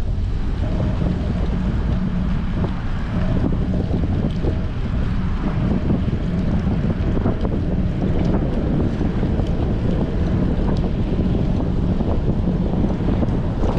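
Strong wind buffeting a bicycle-mounted action camera's microphone while riding, a steady low rumble.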